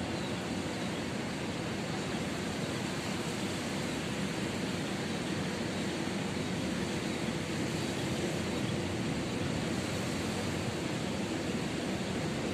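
Steady, even wash of ocean surf, with no single wave standing out.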